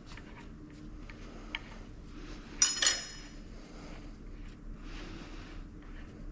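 Metal parts being handled on a workbench. Two sharp clinks about a third of a second apart, roughly two and a half seconds in, each leaving a brief bright ring. A low steady hum runs underneath.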